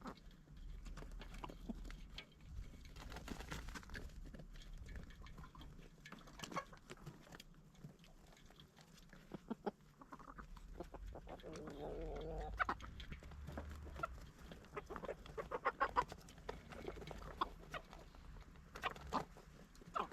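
Backyard chickens clucking, with a longer wavering call about halfway through, among many short sharp clicks.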